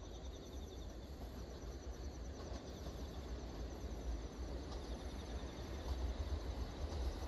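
Low rumble of an approaching train, the EF81 electric locomotive hauling the Cassiopeia sleeper, slowly growing louder as it nears. Insects chirp in quick repeated pulses over it.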